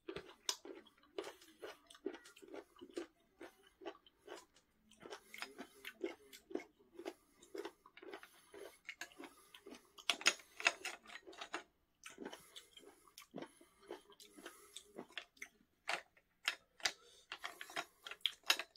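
A person chewing whole, unsliced abalone close to the microphone: irregular chewing and biting clicks, pausing briefly about twelve seconds in.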